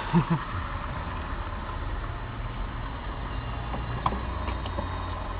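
A car engine running with a steady low rumble, heard from inside the car's cabin, with a short click about four seconds in.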